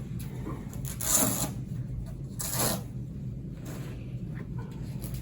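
Rasping, rubbing sounds of a child's leg braces and boots being unstrapped and pulled off, with two louder rasps about a second and a half apart, over a steady low room hum.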